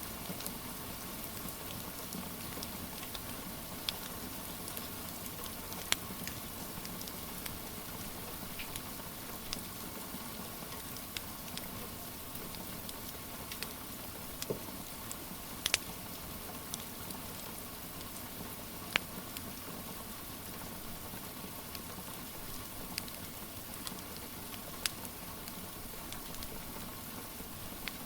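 Steady rain hiss mixed with a crackling wood fire. Scattered, irregular sharp pops sound over the constant hiss.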